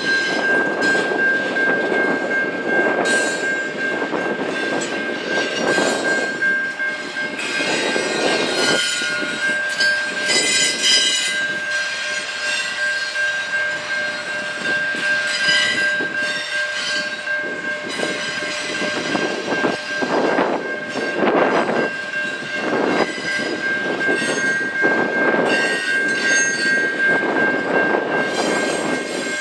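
A train rolling past, its wheels knocking in repeated clusters over rail joints, with one steady high-pitched whine held throughout.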